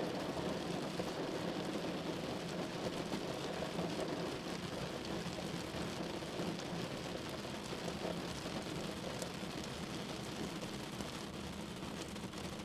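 Steady rain falling on a window pane: a dense, even patter with a few faint separate drop ticks, easing off slightly near the end.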